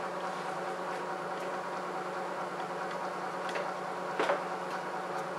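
A steady electric hum, with a few light knocks of plastic on plastic as headlight lens glass is set onto its housing, the loudest one about four seconds in.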